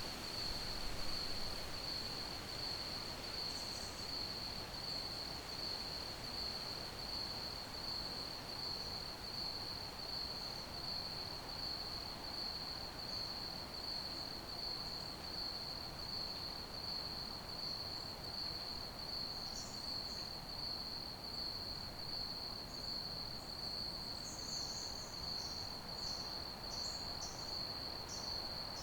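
Crickets chirping in a steady, even pulsing rhythm over a soft background hiss. Fainter, higher chirps join near the end.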